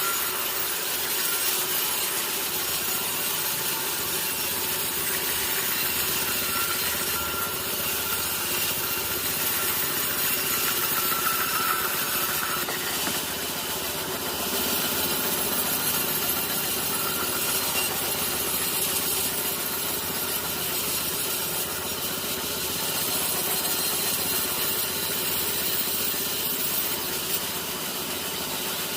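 Sawmill blade cutting steadily through a teak log, a continuous rasping saw noise that runs on without a break.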